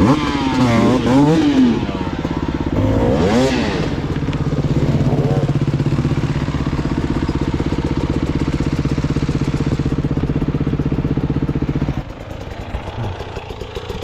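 Dirt bike engine revving up and down in quick throttle blips for the first few seconds, then held at a steady high rev for about eight seconds, dropping off sharply near the end.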